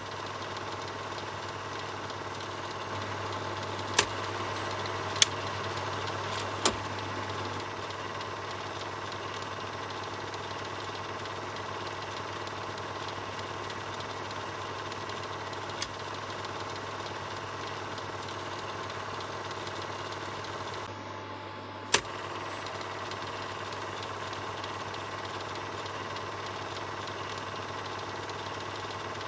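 Film projector running with a steady mechanical whir and low hum. A handful of sharp clicks stand out at uneven intervals.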